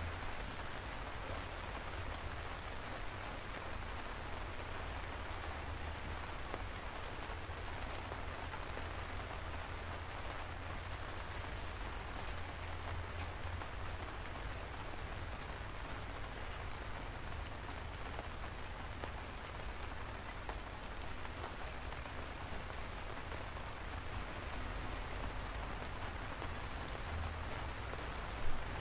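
Steady rain falling, with scattered sharper drop ticks over a low rumble. One brief louder knock comes just before the end.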